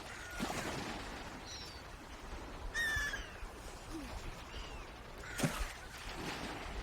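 Swans calling: a series of short, downward-sliding calls, the loudest about three seconds in, over low background noise.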